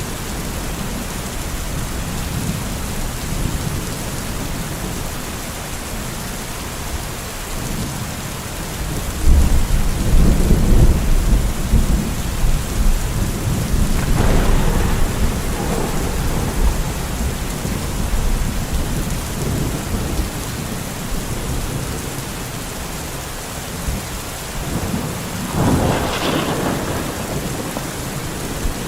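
Steady heavy rain with thunder. A loud low rolling rumble comes about a third of the way in, and sharper thunder claps come around the middle and near the end.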